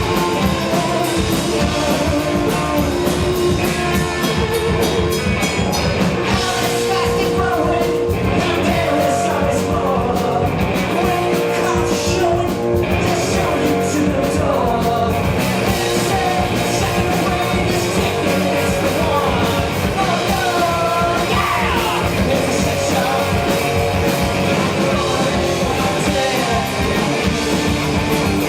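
A rock band playing live: guitars and drums with singing over them.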